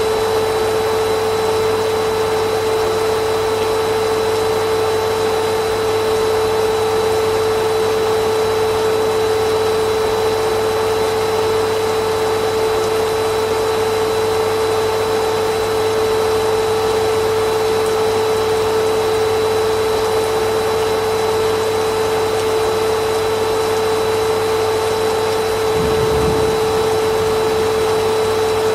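Vacuum cleaner running steadily, a constant rushing noise with a steady whine in it. Near the end there is a brief low rumble.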